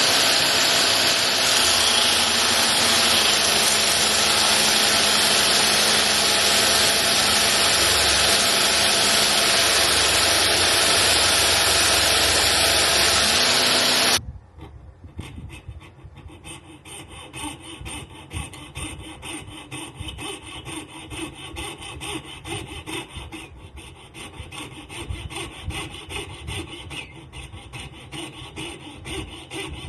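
A loud, steady power-tool noise cuts off suddenly about halfway through. It is followed by quick, even back-and-forth rasping strokes of the bone saddle blank being worked down by hand.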